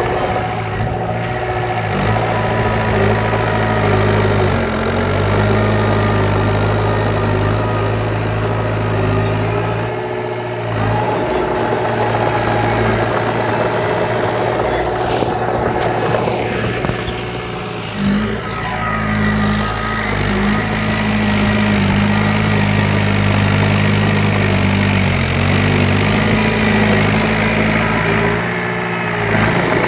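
Diesel engine of heavy earthmoving machinery running steadily, its note dipping and shifting briefly about ten seconds in and again just past the halfway point.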